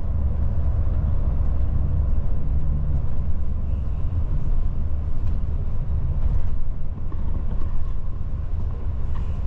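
Steady low rumble of a tour coach on the move, heard from inside the cabin: the engine and tyres running on the road.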